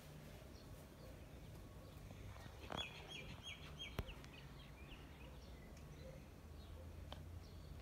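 Faint outdoor ambience with a low steady rumble. About three seconds in, a small bird chirps a quick run of about seven short high notes. A single sharp click follows about a second later.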